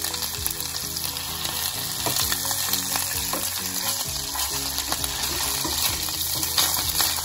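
Meatballs sizzling as they fry in oil with chopped onion in a stainless-steel saucepan, with a wooden spoon stirring and scraping them around the pan in short strokes.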